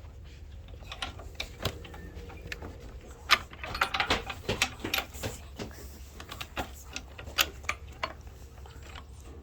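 Irregular sharp clicks and knocks of hard objects, densest from about three to five and a half seconds in, over a steady low rumble.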